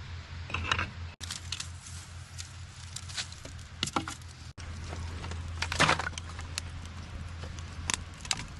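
Sticks of firewood being handled and broken: scattered knocks, clicks and cracks with no steady rhythm, broken off abruptly twice.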